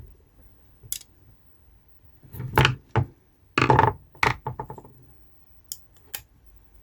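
Small screws and metal tweeter parts clattering and scraping on a hard work surface in several short bursts, ending in a quick rattle and a couple of sharp clicks, as a fumbled screw is retrieved during reassembly.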